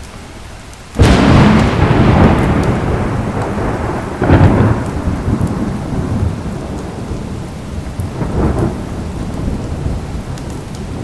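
Thunder: a sudden loud clap about a second in that rolls on and fades over several seconds, with further rumbles about four and eight seconds in, over steady rain.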